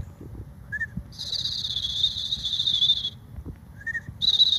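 A person imitating a red-winged blackbird's song by mouth, twice: a short whistled note, then a buzzy, wavering high whistle about two seconds long. The buzz comes from whistling with the tongue behind the teeth while the uvula flutters as in a gargle.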